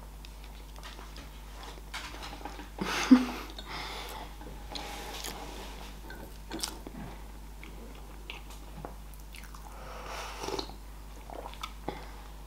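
Close mouth sounds of a woman biting into a small pastry and chewing it: wet chewing with small scattered clicks, loudest about three seconds in.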